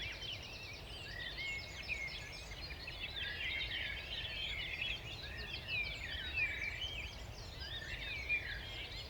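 Dawn chorus: many songbirds singing at once, a dense mix of chirps and warbled phrases, over a low steady rumble.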